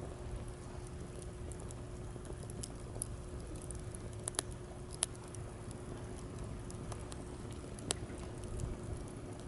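Wood campfire crackling in a fire stand, with scattered small ticks and a few sharp pops, the loudest about four and a half, five and eight seconds in, over a steady low rumble of waves.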